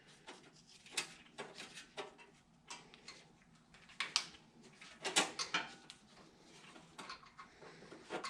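Scattered light clicks and taps, a handful over several seconds, from the choke cable and its fittings being handled and fitted.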